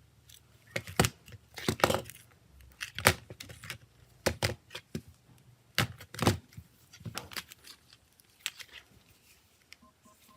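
Irregular sharp clicks, taps and light scrapes of small hard objects being handled, a dozen or so, thinning out near the end.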